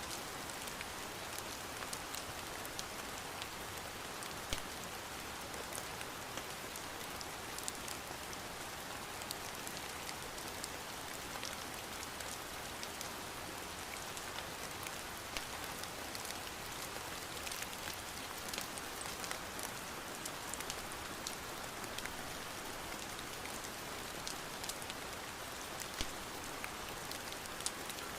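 Steady rain, an even hiss with many scattered sharp ticks and taps of drops hitting a surface.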